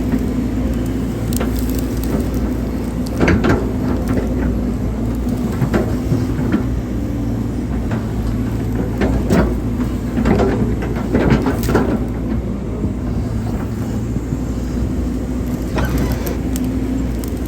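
Hydraulic excavator's diesel engine running steadily while it digs a ditch, with irregular knocks and clanks scattered through the digging.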